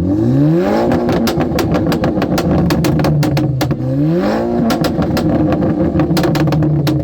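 A car engine revved twice: it climbs from idle, is held at high revs with a rapid crackle of exhaust pops, drops briefly a little before the middle, then climbs and holds again.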